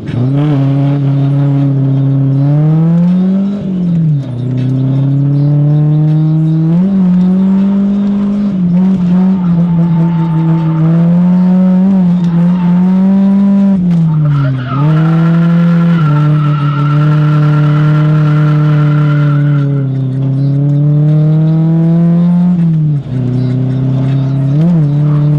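Drift car engine held at high revs through a drift run, its pitch dropping and climbing back several times as the throttle is lifted and reapplied. Tires squeal steadily through a stretch in the middle.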